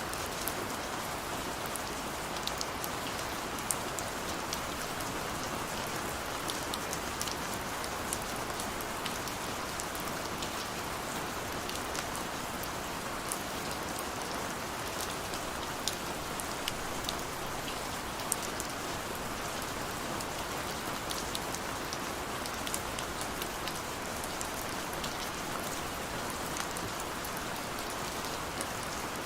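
Steady rain, with many separate drops ticking on a hard surface over the even hiss of the downpour.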